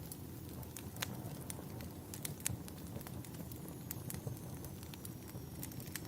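Wood fire burning: a steady low rumble of flames with frequent sharp crackles and pops of burning wood, two louder pops about one and two and a half seconds in.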